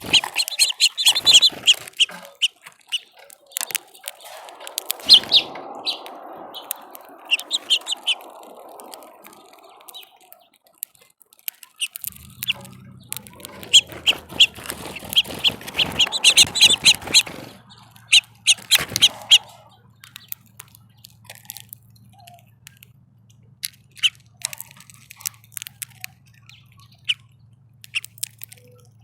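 Small songbirds at a feeder chirping in quick, busy clusters, with sharp clicks among the calls. A low steady hum joins about twelve seconds in.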